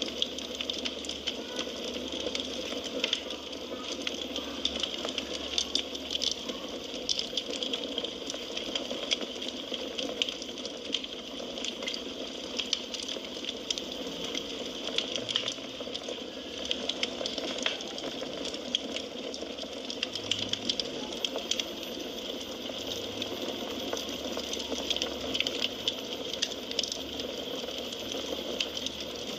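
Wood fire burning in a fireplace: a steady low rush of flames with frequent small crackles and pops of the burning firewood.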